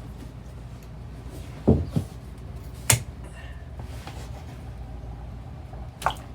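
A few short knocks and clicks from hand tools and RV toilet plumbing parts being handled: three close together about two seconds in, another near the end, over a steady low hum.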